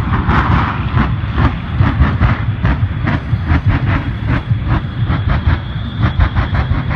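Shockwave jet truck's three jet engines running, with a rapid run of sharp cracks, about three to four a second, over a deep rumble.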